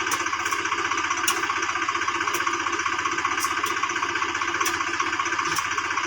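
Swaraj 735 FE tractor's three-cylinder diesel engine running steadily with a rapid, even pulse, and a few sharp clicks over it.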